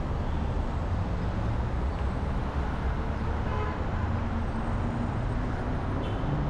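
Steady city road traffic with a low rumble, and a short car horn toot about three and a half seconds in.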